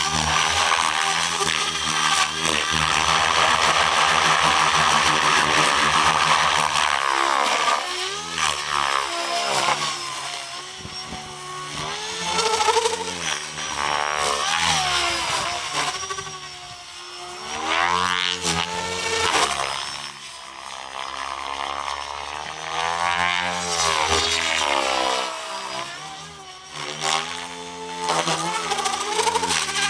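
Electric 700-size RC helicopter (Soxos 700 with an Xnova motor) in flight: the motor and rotor whine holds steady for the first several seconds. Its pitch then swoops up and down again and again as the loudness rises and falls.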